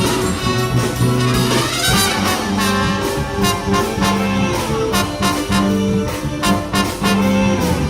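Big band playing live: brass and saxophones over a steady drum beat, with a rising horn glide about two seconds in.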